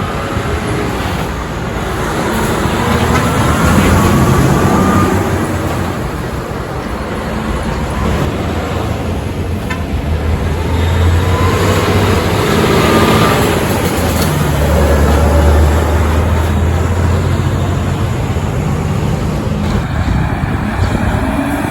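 Heavy trucks driving past on a road: a low diesel engine drone and tyre noise that swell as each truck goes by, loudest at about four seconds and again in the middle of the stretch.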